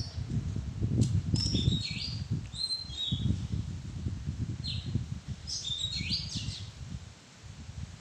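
Oriental magpie-robin singing: a few phrases of short, clear whistled notes at changing pitches, some sliding down, over an uneven low rumble.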